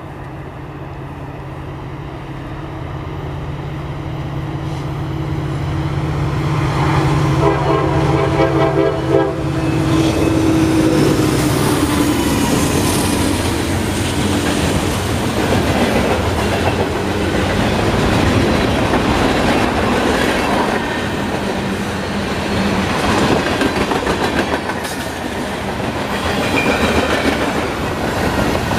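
Norfolk Southern diesel freight train approaching, its locomotive engine drone growing louder. The air horn sounds for a few seconds about a quarter of the way in. Then the freight cars roll past, wheels clacking over the rail joints with a steady rumble.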